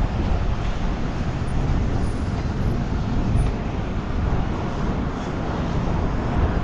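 A GRT ION bus running close by, a steady low rumble.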